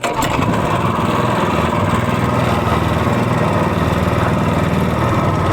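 Predator 224cc single-cylinder engine of a longtail mud motor running steadily at high throttle, cutting in abruptly.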